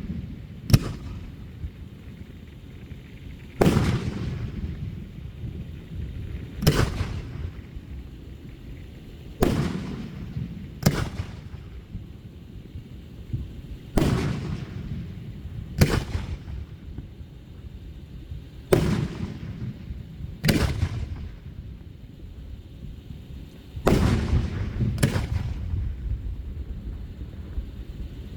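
Aerial fireworks shells bursting in a steady series, about one sharp bang every two to three seconds, each trailing off in an echo.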